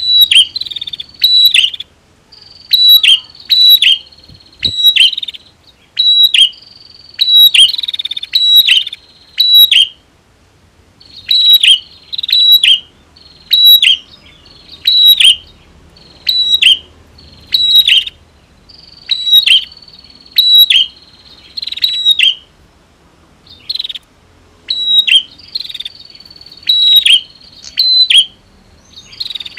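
Prinia (prenjak) calling: loud, sharp notes repeated about twice a second in runs with short pauses between, sometimes with a thin, steady high note underneath.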